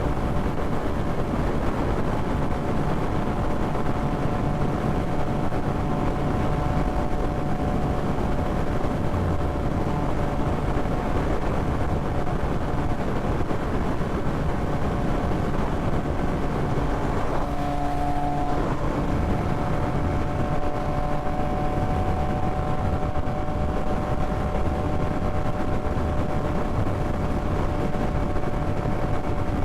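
Yamaha MT-09 inline-three motorcycle cruising at a steady speed: a constant engine drone under steady wind rush on the microphone, with a brief change in the engine note a little past the middle.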